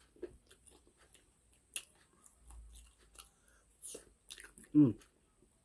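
Close-miked mouth sounds of a person chewing fried chicken and mashed potatoes, with scattered small clicks and smacks. A short hummed "mm" comes near the end.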